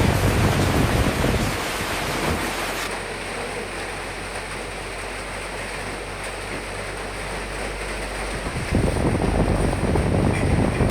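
Recorded rain and wind against windows: a steady rushing noise that eases and thins out about two seconds in, then swells back up near the end.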